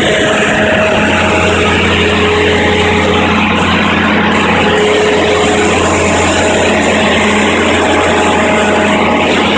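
Onan 30EK natural gas standby generator running at a steady speed: a loud, even engine hum with steady tones and no change in speed.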